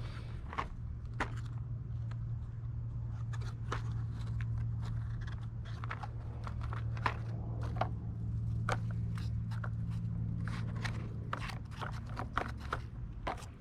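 Scattered small clicks, taps and crunches, irregularly spaced, over a steady low hum.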